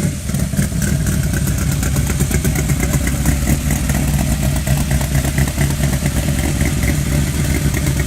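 A vehicle engine idling steadily, with a rapid, even pulsing.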